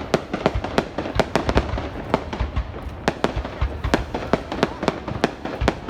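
Fireworks going off: an irregular string of sharp bangs and cracks, several a second, over a steady low rumble of more distant bursts.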